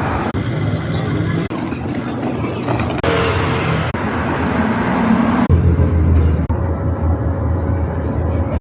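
Loud, steady road-vehicle noise, a low rumble under a hiss, changing abruptly several times as short clips cut into one another.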